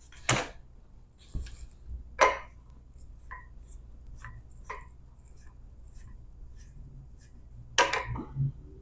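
Scattered knocks and clicks of tools and workpieces being handled on a workbench: a few louder knocks and lighter ticks at uneven intervals, over a low hum.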